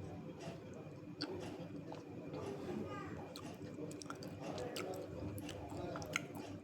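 A person chewing crunchy pieces of dry clay, with scattered sharp crackling clicks as the pieces break between the teeth.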